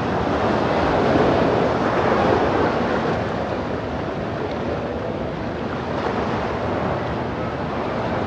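Ocean surf washing ashore, with wind on the microphone: a steady rushing that swells about a second in and eases slightly later.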